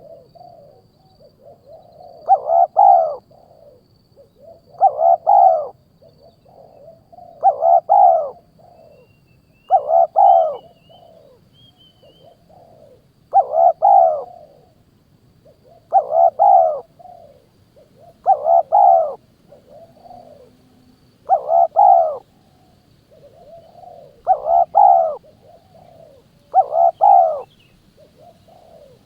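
A bird call repeated at an even pace, about one every two and a half to three seconds. Each call is a short phrase of about a second, and the calls sound nearly alike.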